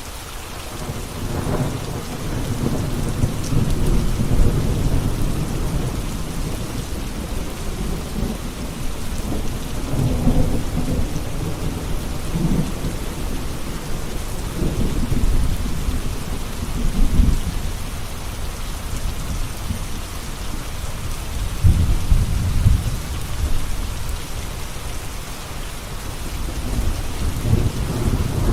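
Steady rain with thunder rumbling again and again, several low rolling swells that rise and fade, the loudest about 22 seconds in.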